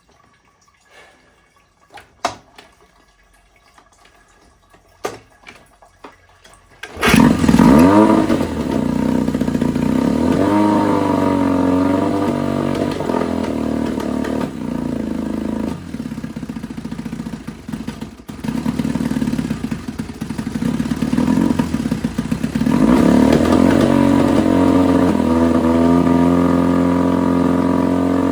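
A few light knocks, then about seven seconds in the 1969 Johnson 9.5 hp two-cylinder two-stroke outboard starts and runs. Its pitch rises and falls as it is revved, sags for a few seconds around two-thirds of the way through, then picks up to a higher, steadier speed near the end.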